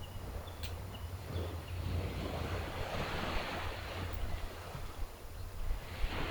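Gentle sea waves washing onto the shore over a low steady rumble of surf: one wash swells up about two seconds in and fades, another comes in near the end.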